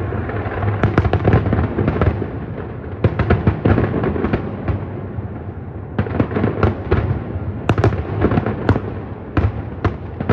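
Distant fireworks display: rapid clusters of sharp bangs and crackles over a continuous rumble of bursts.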